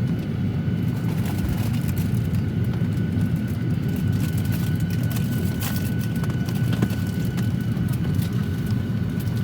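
Steady low hum of a Boeing 737-800's cabin on the ground during boarding, the air-conditioning rush with a faint steady high whine over it and a few faint clicks.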